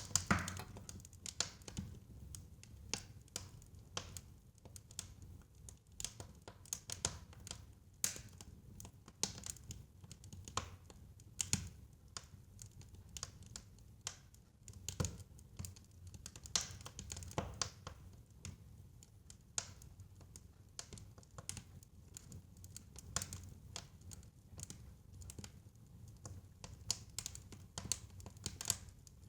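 Wood fire crackling in a fireplace: irregular sharp pops and snaps over a low steady rumble of the flames, with a louder pop at the very start.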